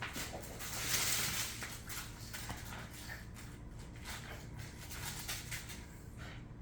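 A dog making an odd noise: a short breathy hiss about a second in, among many small scattered clicks.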